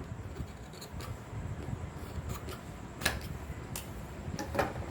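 Scissors cutting lining fabric, with a few sharp snips about three seconds in and near the end, over a low rustle of cloth being handled.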